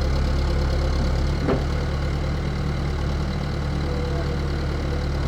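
Engine idling with a steady low hum and one short click about one and a half seconds in.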